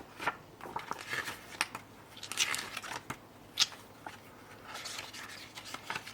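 Paper rustling and light taps as a large printed booklet and its packaging are handled: short swishes of paper with a few sharp clicks, the loudest about three and a half seconds in.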